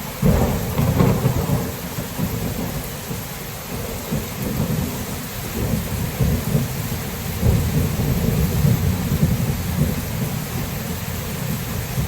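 Thunderstorm: a thunderclap breaks in suddenly with a crackle, then rolls on as a long low rumble that swells and fades several times, over steady rain.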